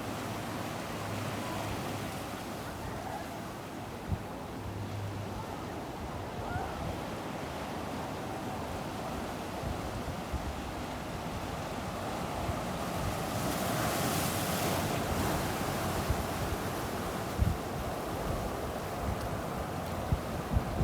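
Ocean surf washing onto the beach in a steady rush, with a wave breaking more loudly about two-thirds of the way through. Wind buffets the microphone with a few short low thumps.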